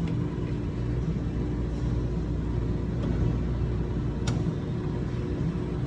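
Steady low rumble with a faint steady hum, and one sharp click about four seconds in.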